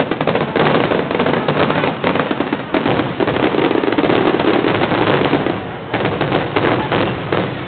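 Fireworks going off in a rapid, dense barrage, many bursts and crackles overlapping with barely a pause.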